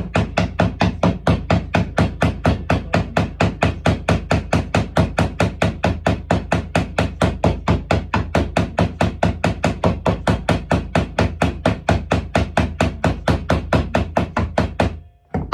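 Hammer blows on copper boat nails in a wooden clinker hull, clenching the nails over their roves. The taps are rapid and even, about four a second, and stop near the end.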